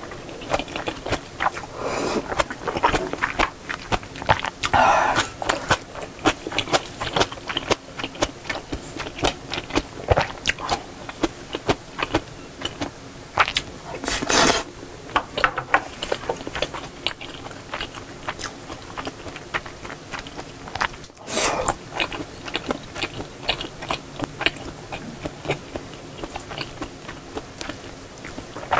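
Close-miked eating sounds of a person chewing seafood jjamppong noodles, full of small wet mouth clicks. There are two louder, noisier moments, about halfway through and about two-thirds through.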